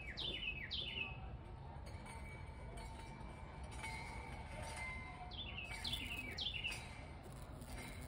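A songbird singing short phrases of three or four quick notes, each sliding down in pitch, once at the start and again a little past the middle, over a steady low background rumble.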